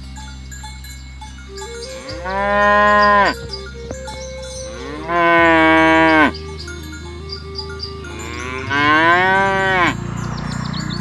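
Cow mooing three times, each call about a second long and loud, its pitch climbing at the start and dropping off at the end.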